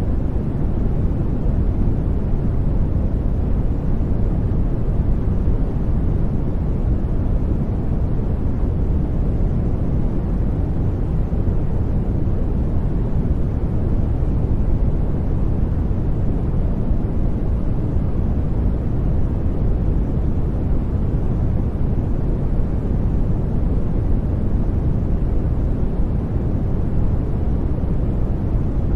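Steady electronically generated noise, sold as white noise, unchanging throughout; it is deep in tone, strongest at the bottom with little high hiss.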